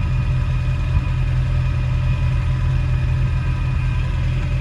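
A Kent 1600 crossflow four-cylinder engine in a Ford Anglia idling steadily through a glass-pack exhaust.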